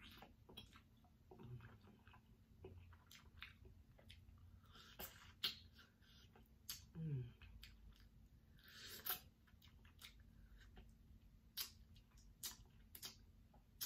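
Mouth sounds of a person biting and chewing air-fried Cornish hen: scattered wet smacks and clicks at a low level, with one short low hum about seven seconds in.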